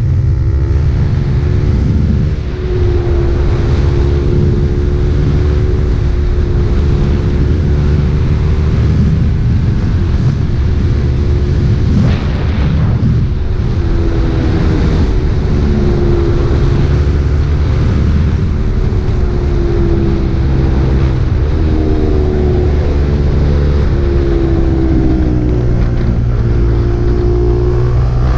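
KTM RC 390's single-cylinder engine running through an Akrapovič exhaust while riding, its pitch rising and falling gently with the throttle, with a brief dip in level about two and a half seconds in.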